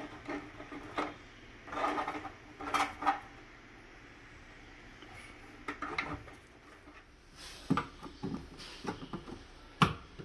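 Scattered clatter, knocks and rubbing of washing machine panels and parts being handled during a repair, in several short bursts with quiet gaps between them.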